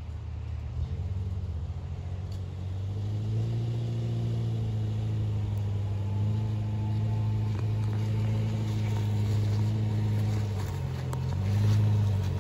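Subaru's flat-four engine running under steady throttle as the SUV drives over a rutted dirt trail, growing louder as it comes closer. The revs dip briefly near the end, then pick up again.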